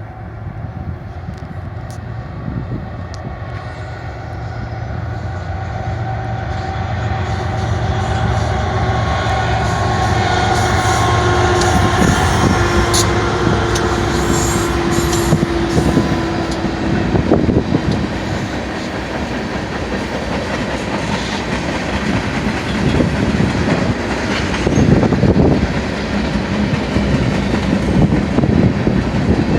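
BNSF freight train passing: the diesel locomotives' drone grows louder over the first dozen seconds or so, with a few held tones, then gives way about halfway through to the rumble and clatter of the freight cars' wheels rolling over the rails.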